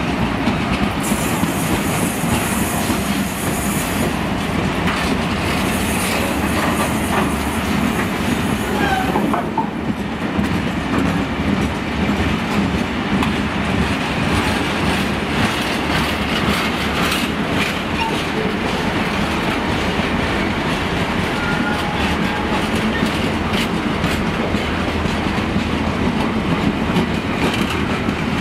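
Empty freight wagons rolling past close by: a loud, steady rumble of wheels on the rails, with a few brief, faint wheel squeals.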